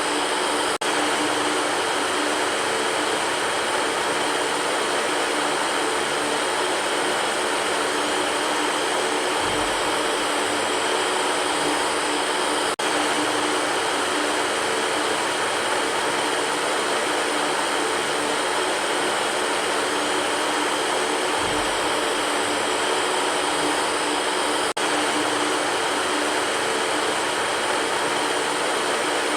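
Electric fan running steadily: an even whooshing noise with a faint hum, with a faint click about every twelve seconds.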